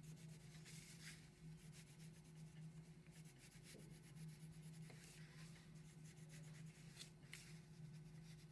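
Faint scratchy strokes of colouring on paper, over a steady low hum.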